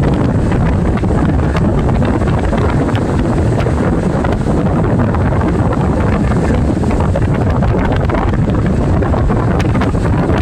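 Heavy wind buffeting the microphone: a loud, steady rumble with faint scattered ticks.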